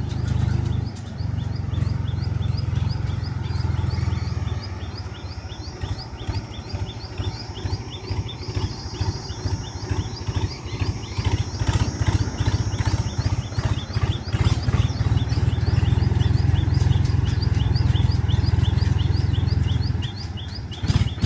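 Powertrac 439 DS tractor's diesel engine running with a low, pulsing chug, steadier and louder in the second half. A bird chirps rapidly and repeatedly over it.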